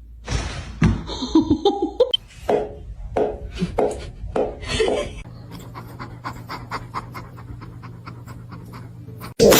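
An animal panting in quick, rhythmic breaths, about two a second at first and then faster and fainter, about four or five a second, from about halfway through.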